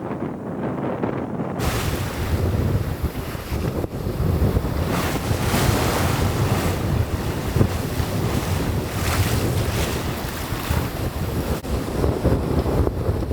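Wind buffeting the microphone over the rush of waves and water along a sailing boat's hull at sea, rising and falling in irregular surges. The sound turns suddenly brighter about a second and a half in.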